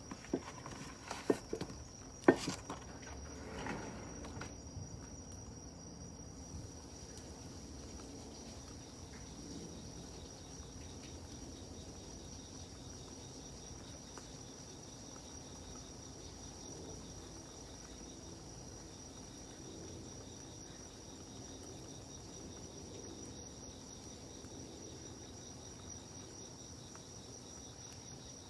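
Insects, crickets among them, trilling steadily in a high continuous note, with a second faint pulsing chirp joining after several seconds. In the first few seconds a handful of sharp pops, the loudest about two seconds in, typical of wood popping in a campfire.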